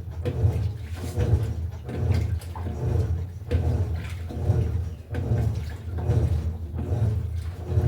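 Electrolux LTE08 top-loading washing machine washing: the drive churns the water-filled tub back and forth, and the water sloshes in steady rhythmic surges.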